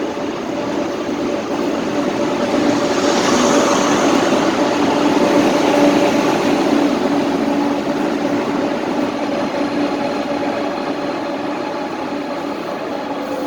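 SRT high-speed train running: a steady rushing noise with a hum and whine, growing louder to a peak about five seconds in and then slowly fading.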